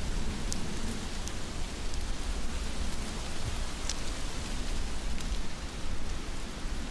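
Heavy rain falling steadily, an even hiss with a low rumble underneath and a few sharp ticks of single drops standing out.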